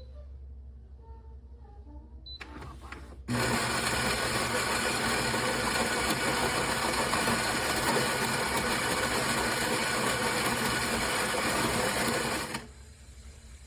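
Philips Series 2300 fully automatic espresso machine running, a loud steady mechanical noise that starts suddenly about three seconds in and stops sharply about nine seconds later.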